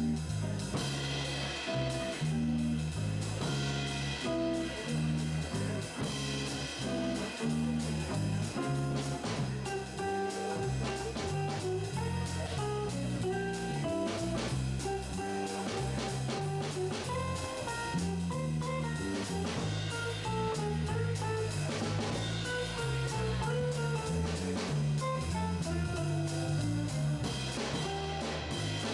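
Jazz trio of guitar, bass and drum kit playing a medium-tempo tune: a bass line moving note by note under the guitar, with steady cymbal time from the drums.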